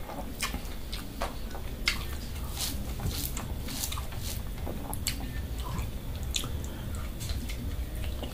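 A person chewing and eating mutton curry with rice, with scattered small wet clicks and smacks.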